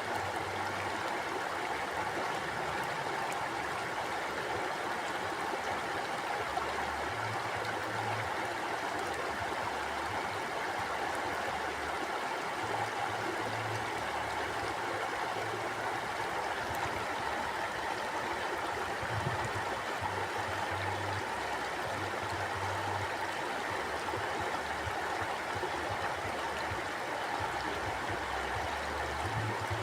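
Mountain stream flowing steadily over rocks, an even rushing of water.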